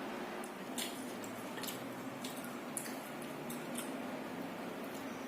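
Close-up eating sounds: faint, crisp clicks and crunches from chewing, about one every half second to second, over a low steady hum.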